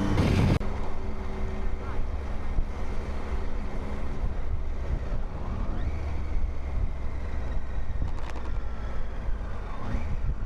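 Motorcycle riding along, its engine and the road making a steady low rumble under wind buffeting the microphone. About half a second in, a steady engine tone stops with a short loud burst, and the rumble and wind carry on.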